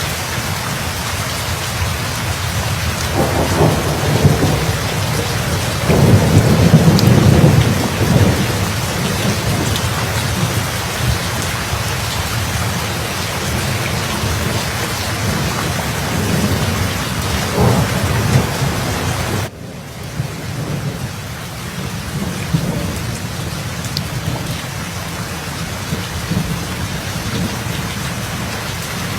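Steady rain in a thunderstorm, with rolling thunder rumbles swelling a few times; the loudest peal comes about six to eight seconds in. About two-thirds of the way through the sound drops suddenly to quieter, steady rain.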